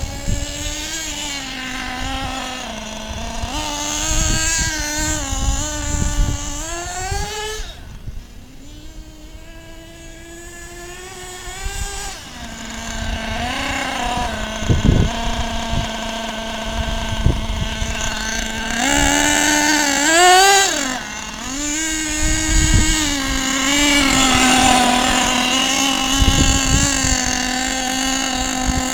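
Small nitro engine of an HPI Lightning Stadium Pro RC stadium truck, high-pitched, revving up and down as the truck is driven. Around the middle it settles to a steady lower note for several seconds, then revs hard again, with a few low thumps.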